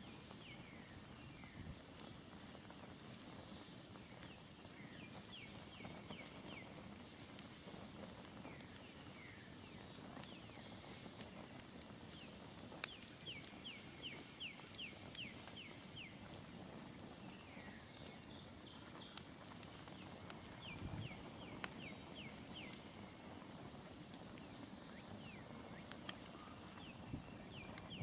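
Smoldering campfire crackling faintly, with a few sharper pops. Birds call in the background in quick runs of short, high chirps, several a second.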